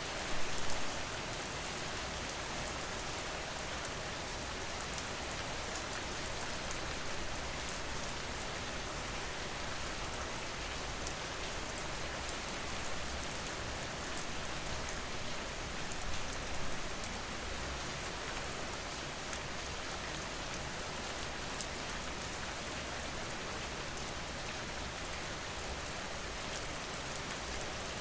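Steady rain falling, an even hiss thick with fine ticks of individual drops. It swells briefly louder about half a second in and again around sixteen seconds.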